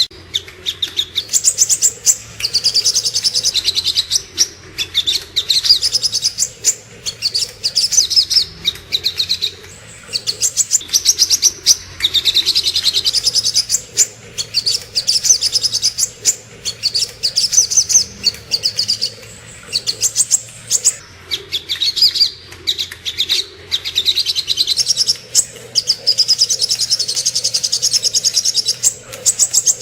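Little spiderhunter (sogok ontong) song: rapid strings of sharp, high chipping notes in phrases of one to three seconds, repeated with short pauses between them.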